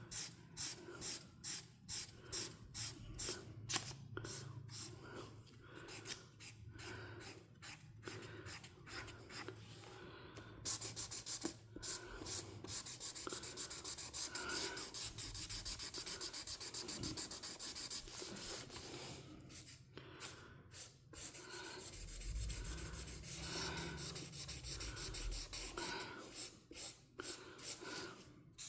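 Coloring strokes scratching on a paper page. At first they come as quick separate back-and-forth strokes, then from about ten seconds in as steady continuous shading, with a brief break near twenty seconds.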